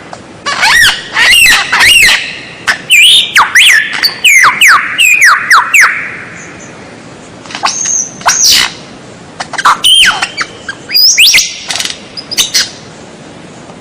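White-rumped shama (murai batu) singing a loud, varied song of rapid whistled notes that swoop up and down, mixed with harsh squawk-like calls. It sings two bursts of phrases separated by a pause of about a second and a half.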